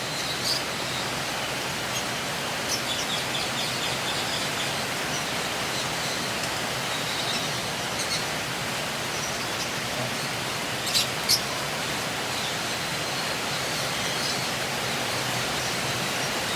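Lovebirds chirping sporadically in short high notes over a steady hiss of background noise. Two sharp, louder chirps come close together about eleven seconds in.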